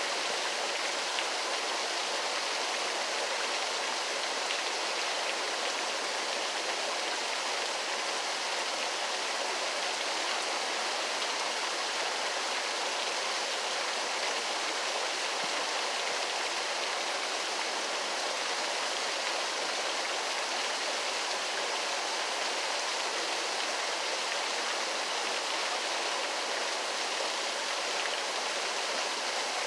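Waterfall: a steady, unbroken rush of falling water, even in level, with little deep rumble.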